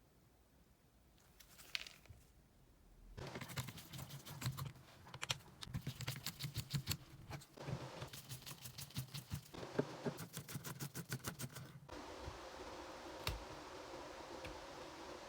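Cordless impact wrench, a Bosch GDS 250-LI, triggered in four short bursts, its hammer mechanism clattering rapidly over the motor's hum. After that comes a steady, even hum.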